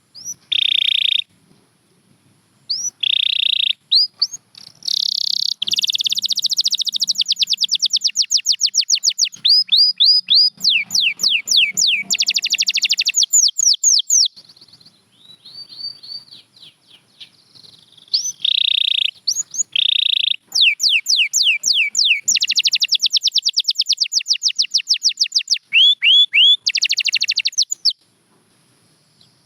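Domestic canary singing in long phrases of rapid, rolling trills and high sweeping notes. The song breaks off briefly about halfway through and again near the end.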